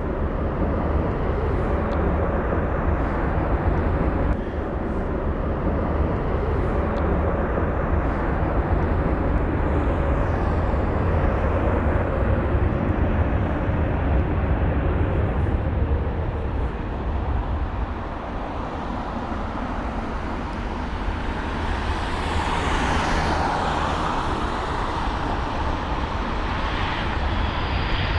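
Jet aircraft engines running with a steady, heavy rumble. A higher whine rises and falls about two-thirds of the way through.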